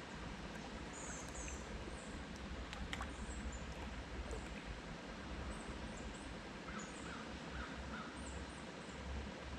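Small birds chirping with short, high, thin notes again and again, over a steady hiss. A few lower short notes come in a quick run about seven seconds in.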